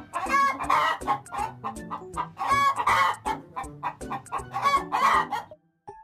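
Hens clucking, with three louder drawn-out calls about two seconds apart. The sound stops shortly before the end.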